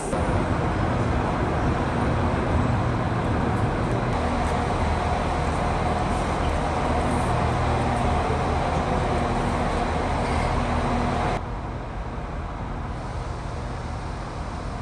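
Steady drone of an idling diesel train and general noise under a railway station's train shed. About eleven seconds in it cuts suddenly to quieter open-air platform ambience.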